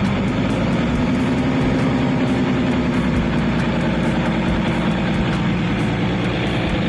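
Steady noise of a diesel passenger train heard from inside a carriage: a constant engine hum over a dense running rumble.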